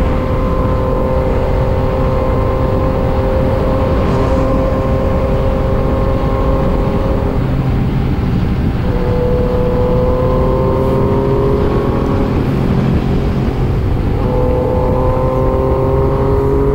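Yamaha MT-09 three-cylinder engine running at highway speed, holding a fairly steady pitch, then climbing near the end as it speeds up. Heavy wind rush over the microphone.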